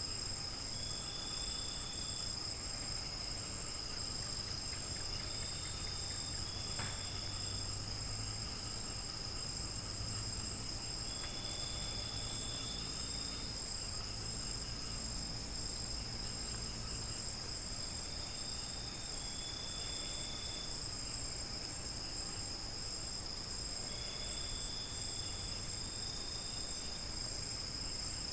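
Night chorus of crickets: a steady, unbroken high trilling, with short, slightly lower chirps coming every few seconds. A faint low hum sits under it, and there is one brief click about seven seconds in.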